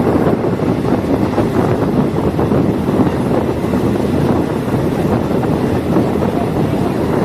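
Steady running noise of a diesel multiple unit train on the move, a dense rumble mixed with wind noise on the microphone.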